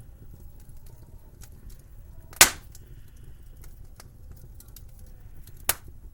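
Wood fire crackling in a fireplace: a run of small, irregular crackles over a low steady rumble, with two sharp loud pops, one about two and a half seconds in and a smaller one near the end.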